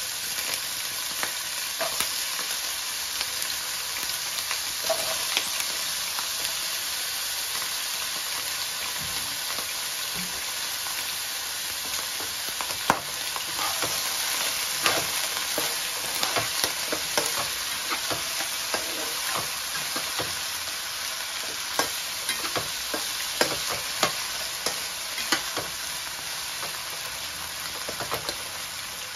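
Pork and purple sweet potato cubes sizzling in oil in a nonstick wok, a steady frying hiss. From a little before halfway on, a metal slotted spatula stirs them, scraping and clicking against the pan.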